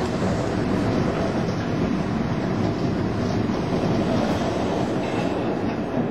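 Passenger train running at speed, heard from inside the carriage: a steady, deep noise of the wheels on the rails.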